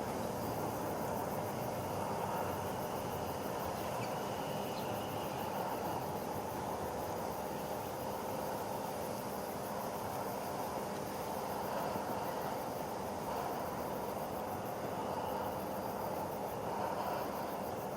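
Steady outdoor background noise, an even hum with no distinct calls or events.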